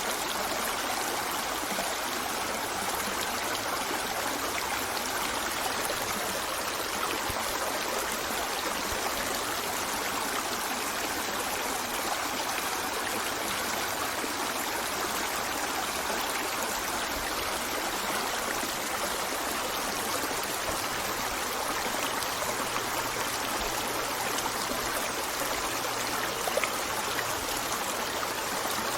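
River water running over rocks: a steady rush of flowing water with trickling and splashing, a small louder splash a little before the end.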